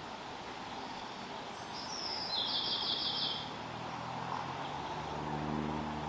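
A small bird's high call about two seconds in: a short falling note, then a quick trill of about ten notes a second, lasting under two seconds, over a steady outdoor hiss. Near the end a low, steady hum of several tones comes in.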